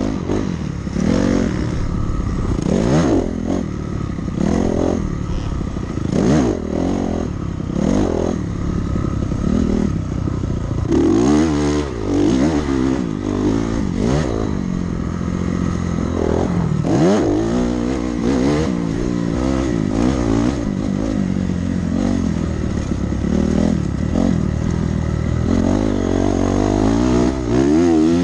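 Dirt bike engine being ridden hard on a motocross track, revving up and falling back over and over as the throttle opens and closes and the gears change.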